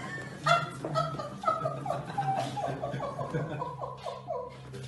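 Laughter: a quick run of short repeated notes, each falling slightly in pitch, over a steady low hum.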